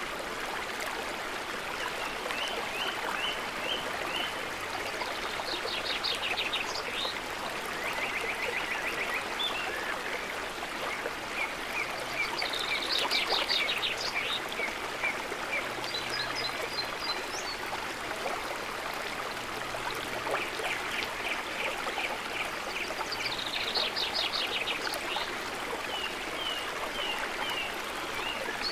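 A river running steadily, with birds singing short phrases of quick repeated notes and trills every few seconds over the water.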